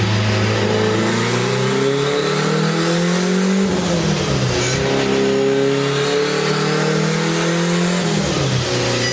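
Turbocharged Honda K20 four-cylinder in an AWD Integra running hard under load on a chassis dyno. Its pitch climbs steadily, drops sharply twice (about four and eight seconds in), and climbs again each time.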